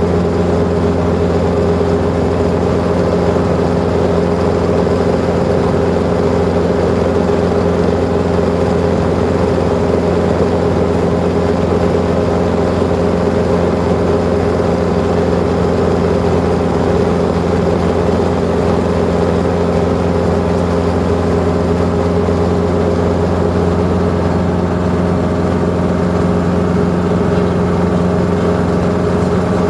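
Helicopter running steadily and loudly, a constant machine drone with no change in pitch or level.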